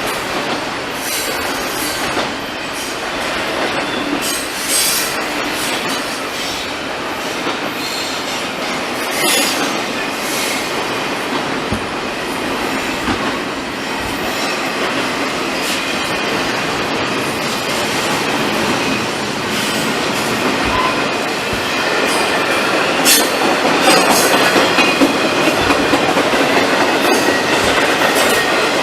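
Freight train rolling past: steady wheel-on-rail noise with clicks and intermittent high wheel squeal, a little louder toward the end.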